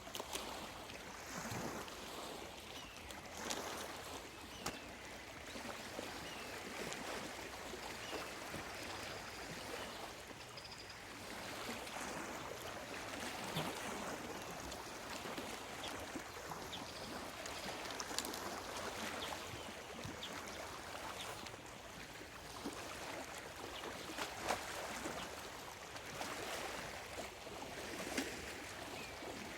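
Small lake waves lapping and splashing irregularly against the shore, a steady wash with many little slaps, and a few faint bird calls now and then.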